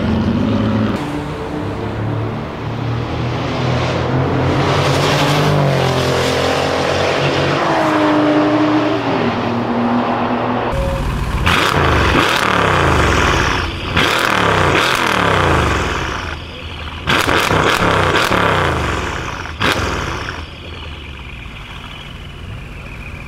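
A Brabus-tuned Mercedes engine running and revved, its pitch rising and falling, then about eleven seconds in three loud bursts of hard revving before it settles back to a quieter run.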